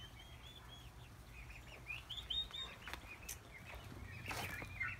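Small birds chirping in many short, high peeps, with a few faint clicks and a brief rustle near the end.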